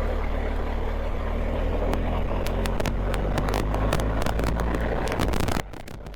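BMW R1250GS Adventure's boxer-twin engine running steadily while the bike is ridden, with scattered sharp clicks over it. The sound drops suddenly about five and a half seconds in.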